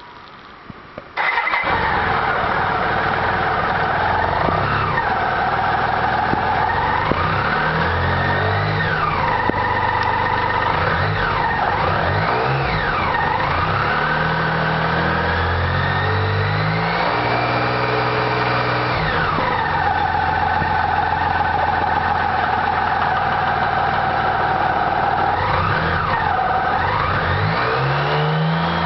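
BMW K75 RT's three-cylinder engine started cold: it catches about a second in, then runs and is revved up and down several times. The owner posts it to show a noise on cold start.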